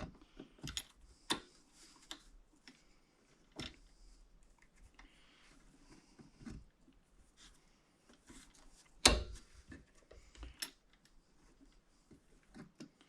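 Scattered light metal clicks and clinks of vise grips being handled and clamped onto a door hinge to press in the bushings, with a louder sharp click about nine seconds in.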